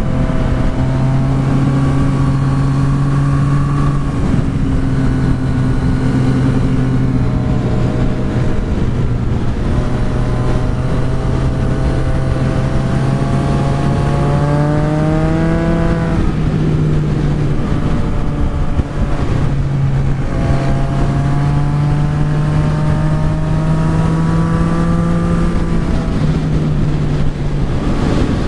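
Yamaha XSR900's inline three-cylinder engine heard from the rider's seat while cruising on a winding road, its note holding steady, climbing with the throttle and stepping down a few times, over constant wind noise.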